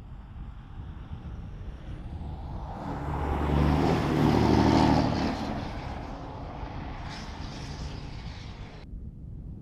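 Deleted, straight-piped 6.7 Cummins inline-six turbodiesel in a Ram 2500 running, swelling to a loud peak about four seconds in and then easing back to a steady rumble. A high hiss stops abruptly near the end.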